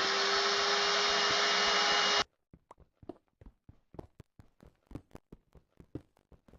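A loud, steady whirring rush with a hum running through it, like a small electric motor running at full speed, that cuts off suddenly about two seconds in. After it come faint, quick, evenly spaced clicks.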